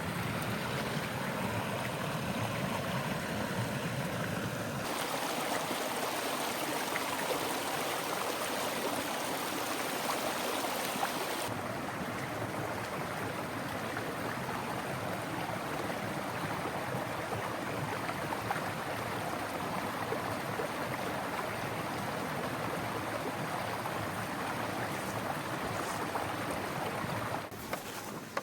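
Steady rushing water noise, changing abruptly in tone twice and dropping off near the end.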